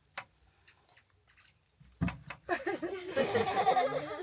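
A few faint clicks, then about halfway in a high voice starts up loudly, talking or babbling in a small room.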